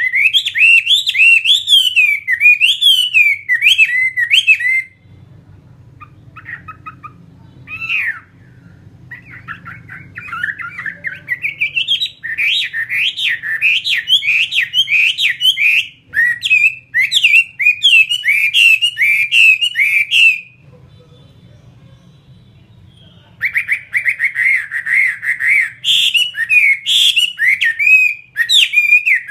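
Chinese hwamei (melodious laughingthrush) singing: loud runs of rapid, varied whistled phrases that break off twice for a few seconds. After the second break the song resumes with a fast, even trill.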